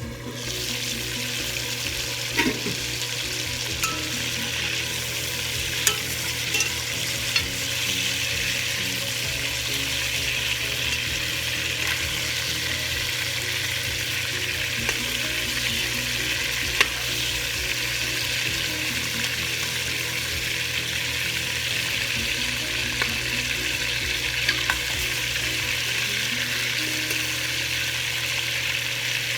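Chicken pieces frying in hot oil in a pan: a steady sizzle that starts abruptly right at the beginning, with a few sharp clicks scattered through it.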